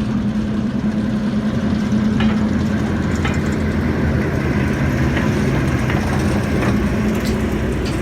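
Large diesel engine idling with a steady low hum.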